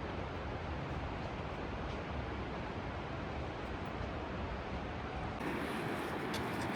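Steady rush of flowing creek water. About five seconds in, it changes abruptly to a brighter, fuller rush.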